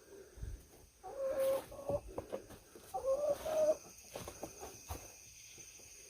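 Chickens in the coop giving a few short, drawn-out low calls, the sound of roosting hens disturbed at night, with scattered faint clicks and knocks between them.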